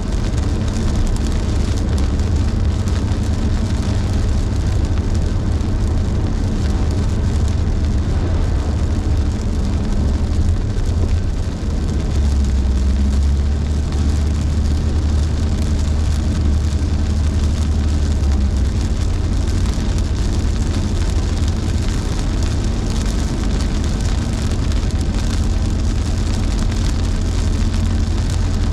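Car driving in heavy rain: a steady low drone of engine and road with an even hiss of rain and tyre spray over it.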